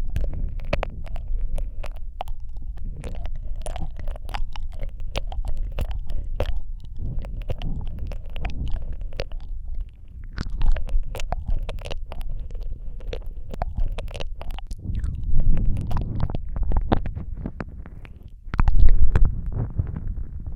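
Wet mouth sounds right at a Rode microphone: many quick clicks, smacks and licking noises over a low rumble, which swells briefly near the end.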